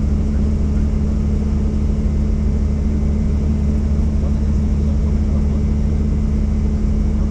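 Helicopter running, a loud steady drone of rotor and engine with a constant low hum, as heard inside the cabin.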